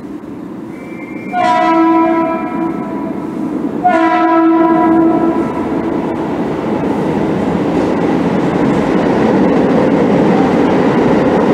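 EMU commuter train sounding two horn blasts of about a second and a half each as it approaches, then the steady, loud rumble of the train running past close by.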